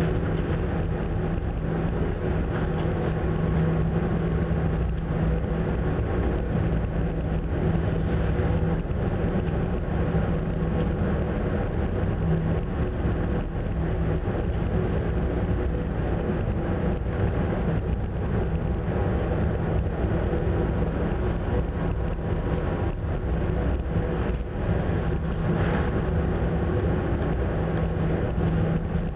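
Ogasawara Maru ferry's engines droning steadily aboard ship, a constant low hum over a continuous rumbling, rushing noise.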